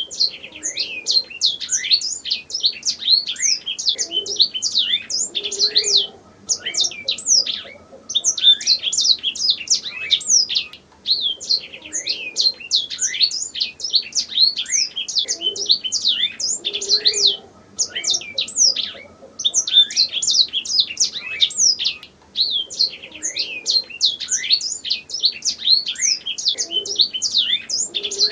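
Domestic canary singing: long phrases of rapid, high chirps and trills, broken by brief pauses every few seconds.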